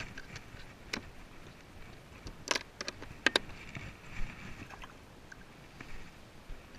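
Handling noises aboard a kayak: several sharp knocks and clicks of gear against the hull, the loudest a little past the middle, over a faint background hiss.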